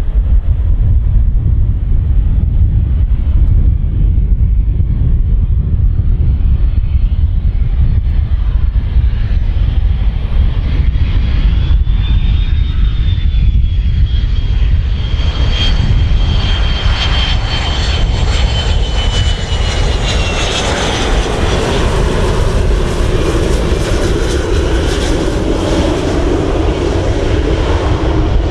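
Inside the cabin of an MD-83 taxiing after landing: a steady low rumble from its rear-mounted Pratt & Whitney JT8D turbofans and the airframe. About halfway through, a high engine whine swells up and slowly falls in pitch as the engines grow louder.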